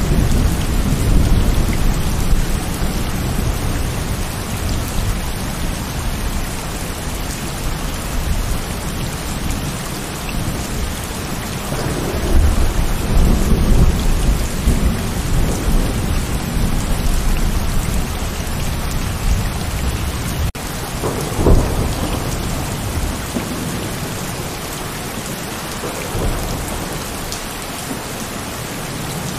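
Heavy rain falling steadily, with rolling thunder. There are low rumbles in the first few seconds and again from about twelve to sixteen seconds in, and a sharper, louder clap about twenty-one seconds in.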